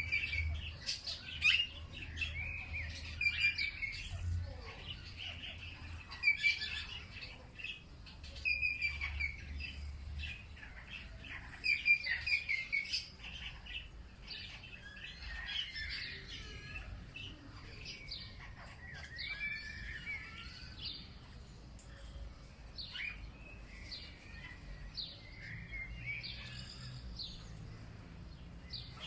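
Several songbirds chirping and trilling, with short calls overlapping throughout, busier and louder in the first half.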